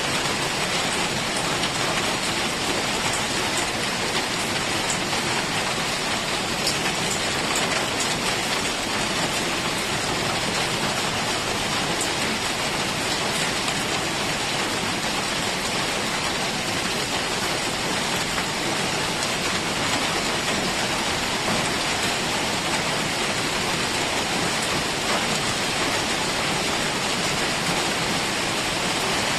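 Heavy rain falling steadily in a forest, an even rushing hiss of drops on leaves and ground.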